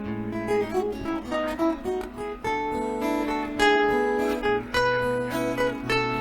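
Acoustic guitar music played live: a melody of plucked notes over sustained bass notes, with some strummed chords, and no singing.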